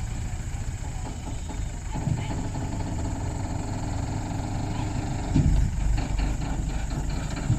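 Mahindra 585 DI tractor's four-cylinder diesel engine running steadily, its note growing fuller about two seconds in, with a brief thump about five and a half seconds in.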